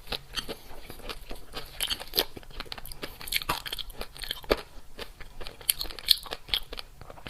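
Close-miked eating sounds: a person biting, crunching and chewing food, with quick irregular crackles.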